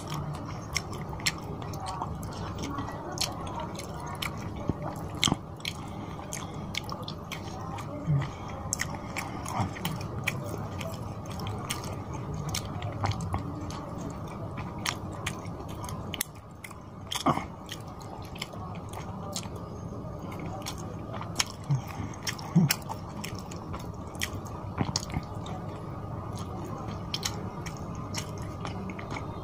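Close-miked chewing of fish curry and rice: wet mouth sounds with many sharp smacks and clicks, and fingers squishing rice through the gravy on the plate.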